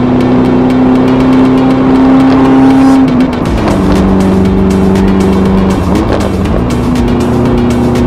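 A classic car's engine running under way at a steady note. About three seconds in the note drops sharply, with a brief dip in loudness, as in a gear change. Near six seconds it glides back up to a steady higher note as the revs rise.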